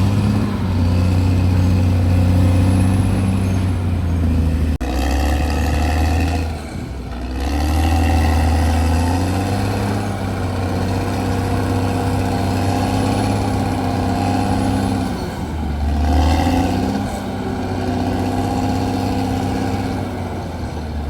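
CAT D6R bulldozer's diesel engine running under varying load, its pitch dropping and recovering a couple of times as the work changes.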